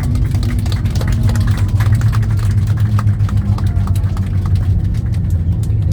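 Airliner cabin noise: a steady low rumble from the jet engines and airframe, with frequent light rattles and knocks of the cabin fittings.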